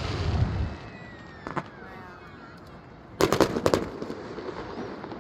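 Aerial fireworks bursting: a low rumbling boom dying away in the first second, a single crack about 1.5 s in, then a rapid cluster of sharp bangs about three seconds in.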